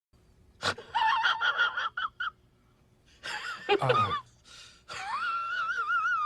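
A high-pitched, wheezing laugh sound effect: quick bursts of giggles, then a long, wavering squeal near the end.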